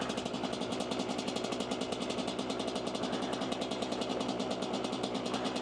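Dirt bike engine running at low, steady revs with a rapid, even pulsing, ridden slowly in a low gear on a slippery snowy road.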